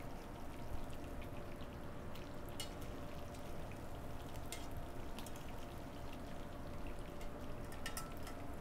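Phyllo-wrapped shrimp shallow-frying in hot oil in a pan: a steady sizzle with scattered sharp crackles and pops.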